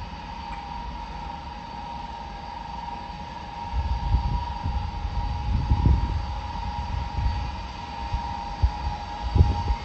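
Jet engines of a large military transport aircraft running with a steady whine, over uneven low rumbling that swells from about four seconds in.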